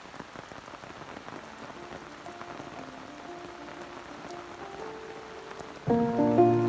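Steady rain falling, an even hiss. Faint background music comes in after about two seconds and turns loud near the end.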